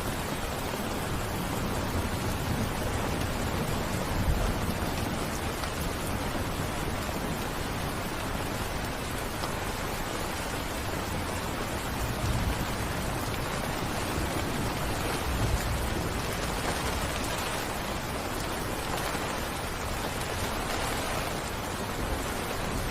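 Steady rain falling, an even hiss of drops, with a few brief low thumps or rumbles underneath, three times.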